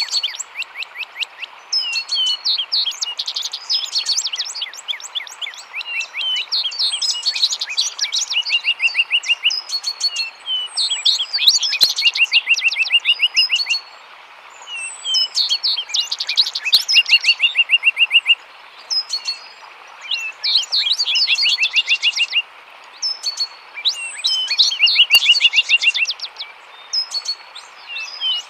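Songbirds singing loudly, with repeated phrases of quick chirps every few seconds, many ending in a short trill, over a steady rush of running water.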